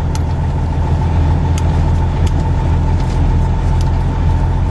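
Steady low rumble of a vehicle's engine and road noise heard from inside the cab, with a thin steady whine and a few faint ticks.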